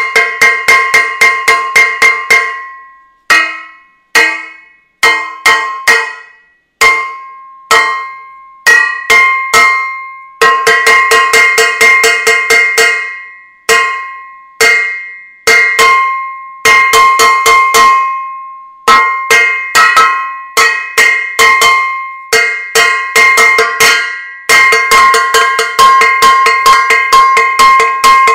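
A metal saucepan being banged repeatedly, casserolade-style, about four strikes a second in irregular runs with short pauses between them. Each hit rings out with a clear metallic tone.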